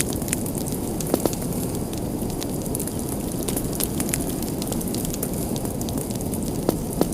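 Fire burning in a fireplace: a steady low rush with scattered crackles throughout, and a couple of sharper pops about a second in and near the end.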